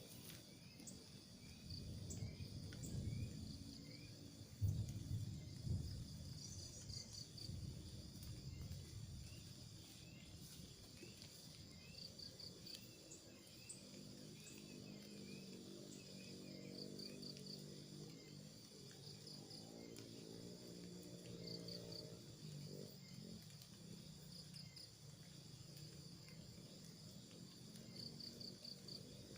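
Quiet outdoor ambience with short bursts of high chirping, four or five quick pulses at a time, repeating every few seconds. There are irregular low rumbles in the first few seconds.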